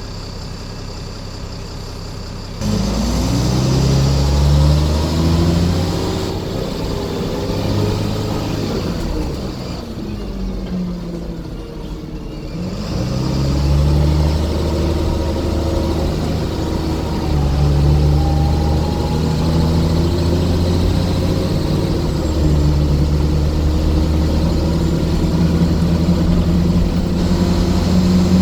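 Scania bus engine idling, then pulling away about two and a half seconds in with a rising engine note. It eases off around ten to twelve seconds in, accelerates again, and then runs at a steady pace.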